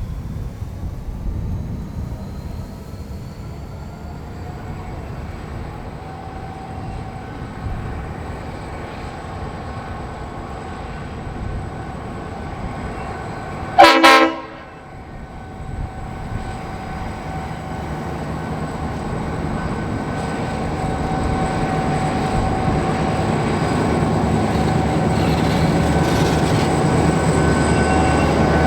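Diesel freight locomotive approaching with its engine running, giving one short, loud horn blast about halfway through; the rumble of the engine and wheels grows steadily louder toward the end as the train draws near.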